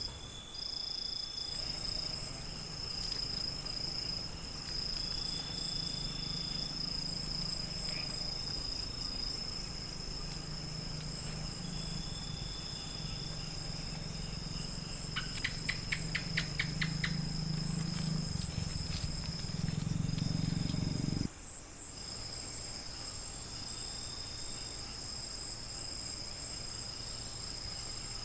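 Crickets trilling steadily in a night-time countryside chorus, with a shorter high call repeating every few seconds and a quick run of clicks about halfway through. A low hum sits underneath and cuts off suddenly about three-quarters of the way in.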